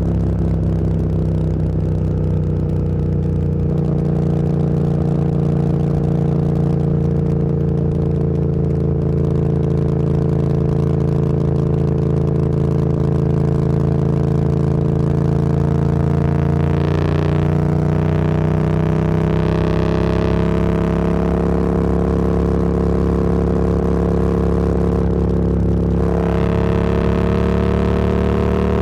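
Motorcycle engine running at road speed under the rider, holding a steady pitch with a small drop about four seconds in and a slow rise later on.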